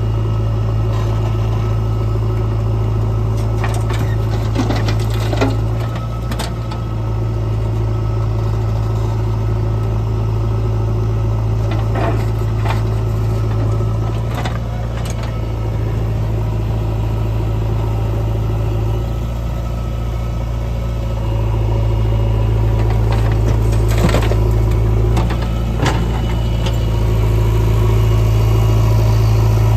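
Diesel engine of a JCB 3DX backhoe loader running steadily while loading mud, with a few short knocks scattered through. The engine grows a little louder about two-thirds of the way in and again near the end.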